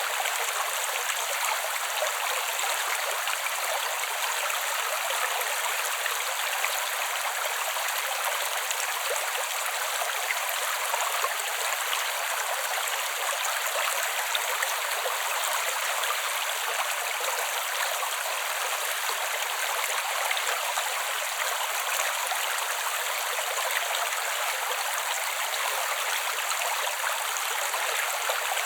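Water of a small creek running steadily, an even, continuous hiss with no low rumble.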